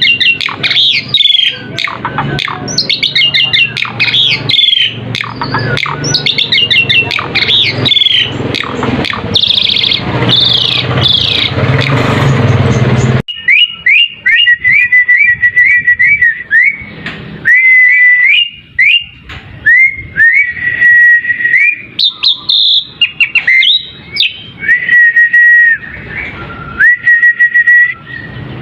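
Asian pied starling (jalak suren) song: fast, dense chattering and whistled phrases over a hissy background, then an abrupt change about halfway through to a cleaner run of repeated clear whistles, each sliding up into a held note of the same pitch.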